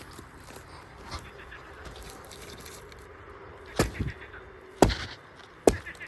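Four sharp thumps or knocks over a quiet background, coming in the second half about a second apart.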